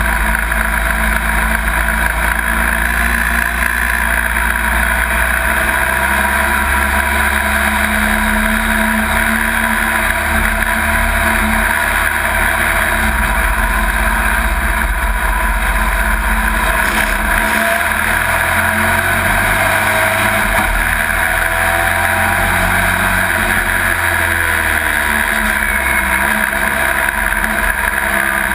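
Pro Truck racing pickup's engine, heard from inside the cab, running steadily under load, its pitch stepping up and down a few times as the truck goes round the track.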